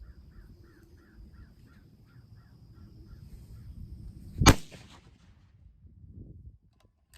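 A bird calling in a quick series of short notes, about three or four a second, for the first three seconds. Then, about four and a half seconds in, a single very loud rifle shot: a 250-grain .338 Lapua Magnum fired from a Savage 110 Precision bolt-action rifle.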